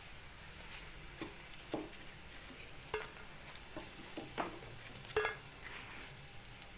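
Batter-coated flower fritters sizzling softly in hot oil in a frying pan, with a string of short, irregular scrapes and clinks of a utensil against the pan as the browned fritters are lifted out.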